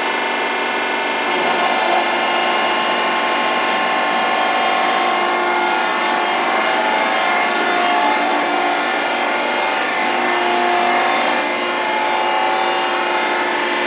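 Rosa RTRC 1000 surface grinder running: a steady machine whine of several fixed pitches over a dense grinding-type noise, swelling slightly a few times.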